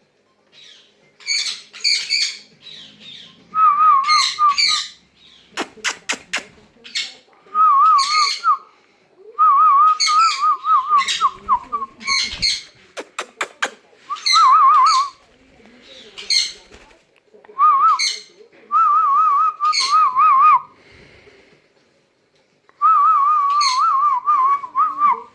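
Sun conure chirping and whistling in repeated bursts: sharp short chirps alternating with warbling, trilled whistles about a second long each.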